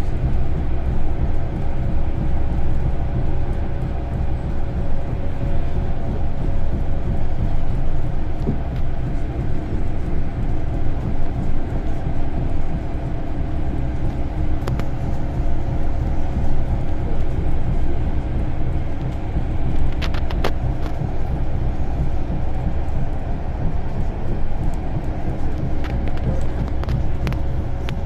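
Bus running steadily along a guided busway, with a continuous low rumble and a steady whine that sound much like a metro train. A few brief clicks or rattles come about two-thirds of the way through.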